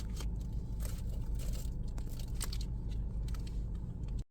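Steady low rumble with scattered light clicks and taps, cutting off suddenly near the end.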